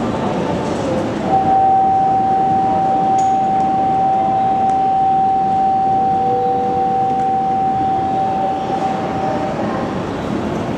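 Shinkansen train noise at a station platform: an even rushing sound, with a steady high tone that comes in about a second in and holds for roughly eight seconds. A fainter, lower tone joins it briefly in the middle.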